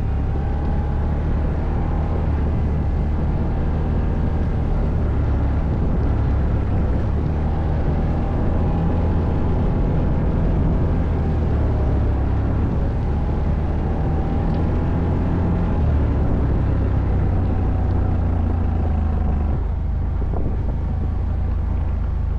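ATV engine running steadily under way off-road, its pitch drifting up and down a little, with a heavy low rumble. The sound eases briefly near the end.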